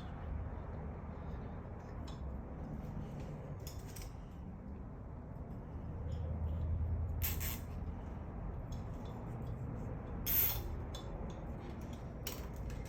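A few scattered light clicks and clinks, like small metal objects being handled, over a low steady hum; the sharpest click comes about ten seconds in.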